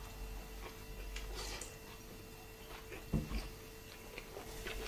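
Quiet mouth sounds of someone chewing a bite of an omelette tortilla wrap, with faint handling of the soft wrap, and a short low sound with a quick second one about three seconds in.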